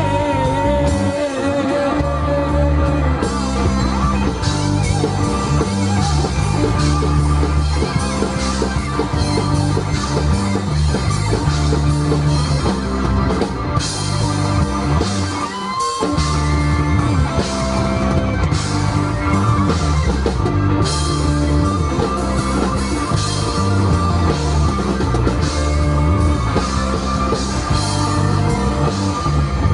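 Rock band playing live: electric guitar and drum kit over a steady bass pulse, with no words sung in this stretch.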